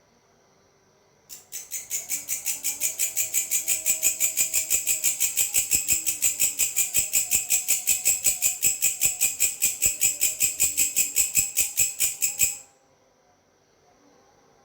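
A singing grasshopper, a long stridulation of rapid, evenly repeated high scraping strokes, about five a second. It swells up over its first second, holds steady, and cuts off abruptly about a second and a half before the end.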